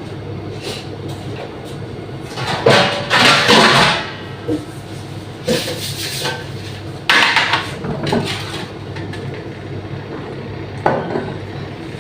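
Kitchen utensils clattering in several short bursts: a spoon and spice containers knocking against a mixing bowl while spices are measured in. A steady low hum runs underneath.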